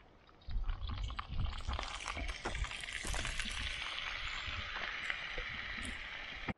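Marinated chicken pieces and marinade poured onto a hot metal sheet pan over campfire coals, sizzling. A few soft thuds come as the pieces land at the start, and the sizzle builds about two seconds in and then holds steady.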